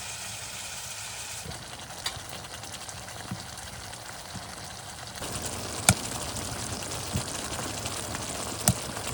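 Food sizzling as it fries in a pan: a steady hiss with a few sharp pops, growing louder about five seconds in.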